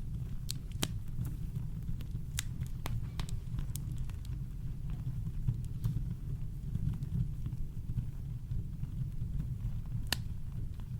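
Campfire crackling, with scattered sharp pops that come thicker in the first few seconds and a louder pop near the end, over a steady deep low rumble of brown noise.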